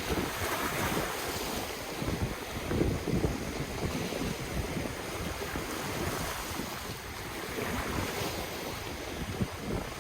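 Ocean waves breaking and washing in, swelling twice, with wind buffeting the microphone as an uneven low rumble.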